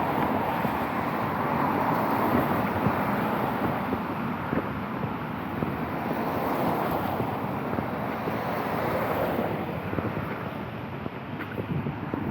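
Street noise in the rain: cars passing with a tyre hiss that swells and fades every few seconds, and wind buffeting the microphone.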